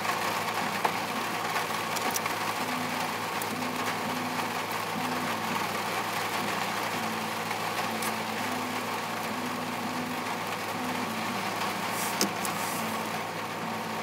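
Rain falling on a car's roof and windshield, heard from inside the cabin as a steady hiss with a few light ticks, over a low steady hum.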